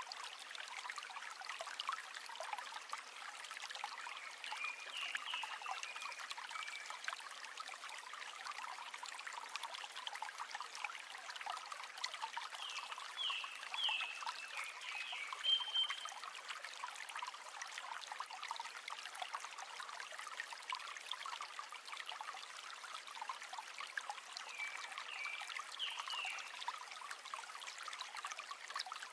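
River water trickling and babbling steadily over stones. Three groups of brief, high chirping calls come through it: about five seconds in, in the middle, and near the end.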